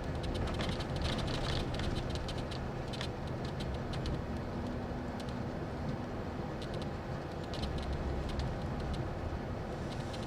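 Bus cabin noise while under way: a steady low engine and road rumble with a constant faint hum, and light rattling and clicking from the interior.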